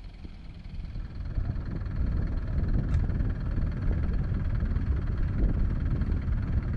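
Tractor diesel engine running with a low rumble that builds over the first two seconds and then holds steady, with a brief click about three seconds in.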